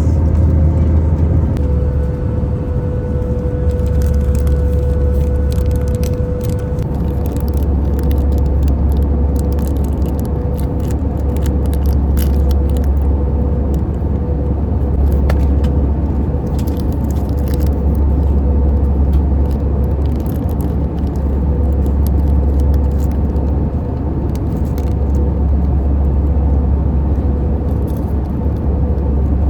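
Airliner cabin noise: a steady low engine rumble with a faint steady whine over it and light rattling.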